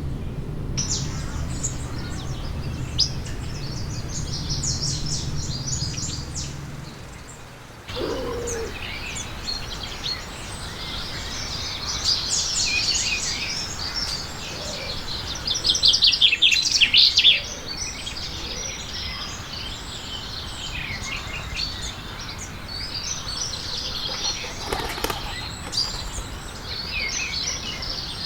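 Small songbirds chirping over and over in short, high notes. A low hum underneath stops abruptly about a quarter of the way in, and about halfway through there is a loud burst of rapid, closely spaced strokes.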